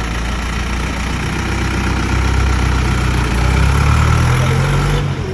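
John Deere tractor engine running, its speed rising through the middle and dropping back near the end.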